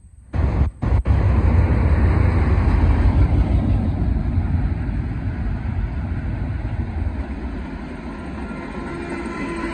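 Autorack freight cars rolling past close by, a steady heavy rumble and clatter of steel wheels on the rails that eases off slowly. The sound cuts out briefly a few times in the first second. Near the end a humming diesel locomotive engine tone joins in as a mid-train BNSF unit approaches.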